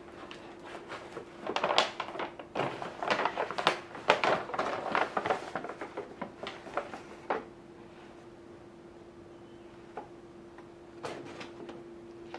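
Household handling sounds: a busy run of clicks, knocks and rustles for several seconds, then a few more clicks near the end, over a steady faint hum.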